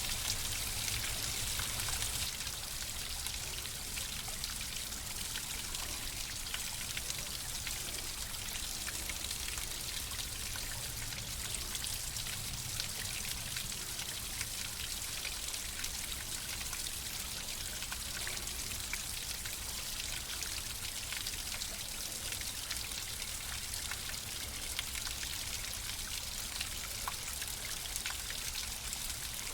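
Flowing water rushing steadily, with many small splashes and drips over a low steady rumble; a little louder for the first two seconds.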